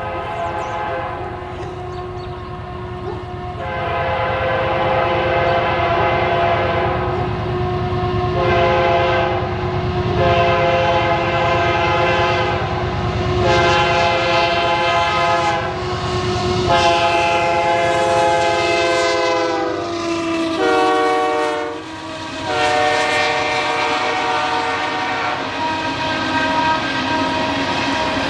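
A diesel locomotive's multi-chime air horn blowing a series of long blasts with short breaks over the rumble of the passing train. About three-quarters of the way through the horn's chord drops in pitch as the locomotive goes by, and it keeps sounding lower.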